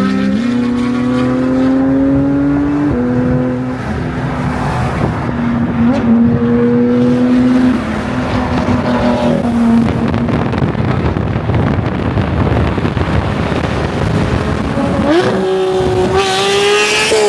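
Porsche 992 GT3's naturally aspirated flat-six pulling hard through the gears. Its note rises, drops at an upshift about three seconds in and holds, then falls to a lower, rougher note for several seconds before a steep rev climb near the end.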